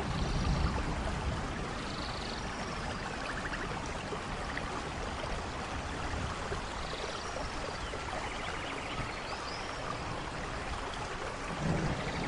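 Steady rainfall. A low thunder rumble dies away in the first second and builds again near the end, with a few faint high chirps over the rain.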